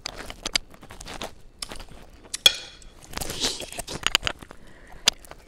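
A person chewing a mouthful of food close to the microphone, with many short sharp clicks; the sharpest come about two and a half seconds in and near the end.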